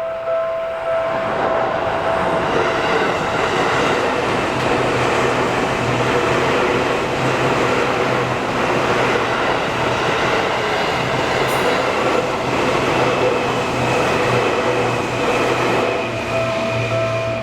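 Seibu Haijima Line electric train passing over a level crossing: a steady, loud rush of wheels on rail and running gear that builds over the first second. The crossing's warning bell keeps ringing underneath and comes through clearly again near the end as the train clears.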